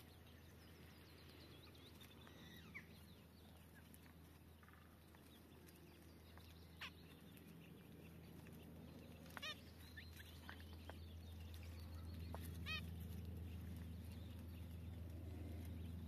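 Faint, short calls of small birds: a brief chirp, a falling whistle, and two quick warbling calls a few seconds apart, over a low steady hum.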